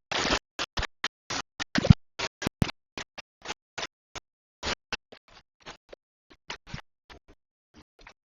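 A run of short, irregular scraping and knocking noises, louder at first and fading to faint ones after about five seconds.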